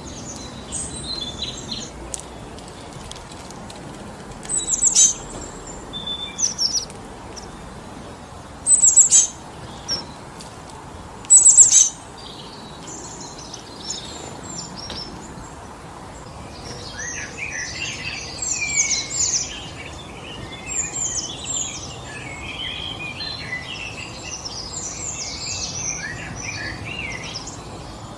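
Steady wind through a forest with birds calling over it: a few loud, sharp, high calls spaced a couple of seconds apart in the first twelve seconds, then busy overlapping twittering of several small birds from just past halfway until near the end.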